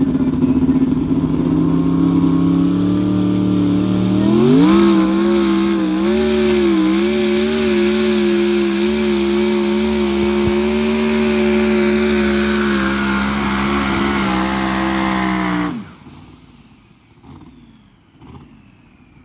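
A pulling truck's engine running under load down the track. It revs up sharply about four seconds in and holds high, wavering slightly as it hauls the sled. The engine sound stops abruptly about three seconds before the end.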